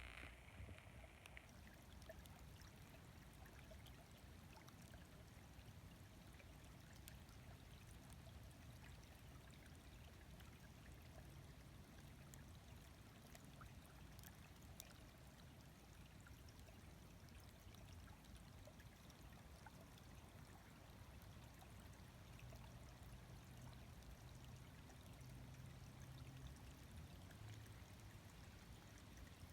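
Faint steady running water, like a small stream trickling, with a few light ticks scattered through it.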